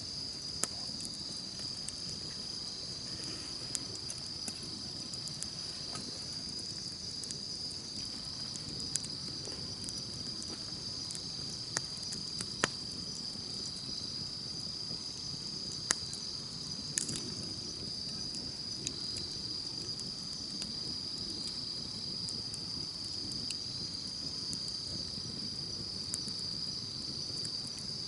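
Campfire burning with a low steady rush and scattered sharp crackles and pops, under a steady high-pitched chirring of insects.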